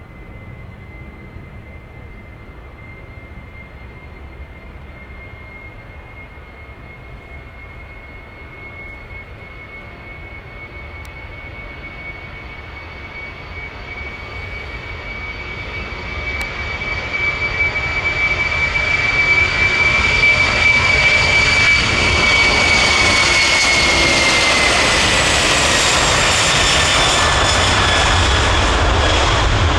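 Four-engine turbofans of a Boeing 747-400 freighter on its takeoff run: a steady high whine over a jet roar, growing much louder through the middle to a full roar, with the whine dropping slightly in pitch near the end.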